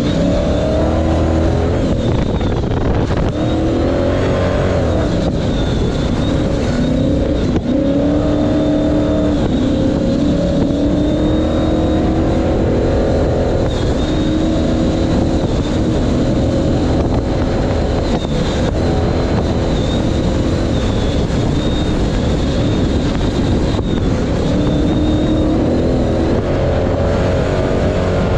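Ford Ranger pre-runner race truck's engine at full racing effort, heard from on board, its pitch climbing and falling back again and again as the driver works the throttle and gears, over a constant rumble of tyre and chassis noise.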